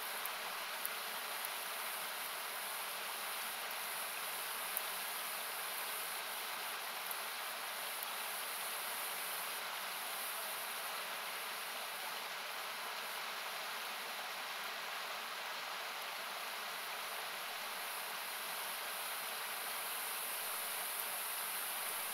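Steady rushing of a river or waterfall, with a few faint crackles from a campfire: about five small pops in the first five seconds and one more near the end.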